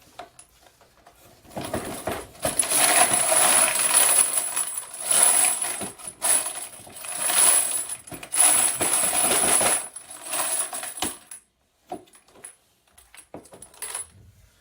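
Spent brass cartridge cases rattling and clinking together as they are turned in a media separator to sift out the tumbling media, in several surges over about ten seconds before it stops.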